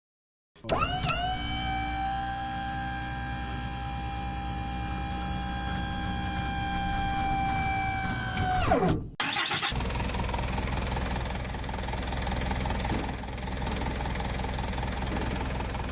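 A small motor whines up to speed, runs at a steady pitch for about eight seconds and then winds down quickly. After a short break a rougher, steady engine-like rumble runs.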